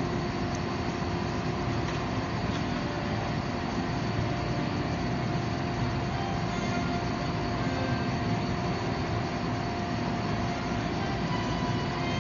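Steady roar and hum of forging-shop equipment: a gas forge and a hydraulic forging press running, with no hammer blows or pressing strokes standing out.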